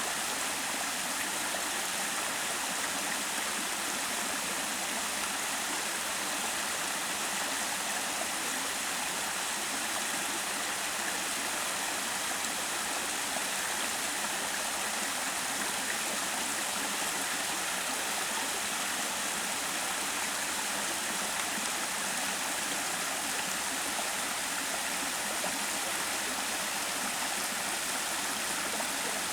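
Mountain valley stream running steadily, an even, unbroken rush of water.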